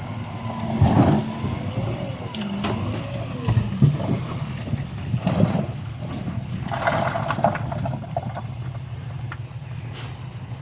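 Heavy earthmoving machinery's diesel engine running steadily, with several sharp clanks and a few squeaking, wavering tones over it.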